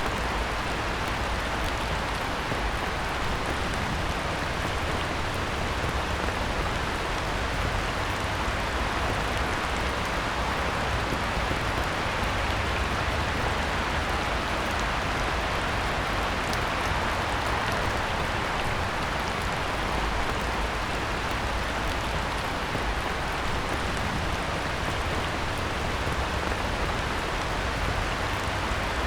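Heavy rain falling steadily on a pond, an even hiss of countless drops that neither swells nor fades.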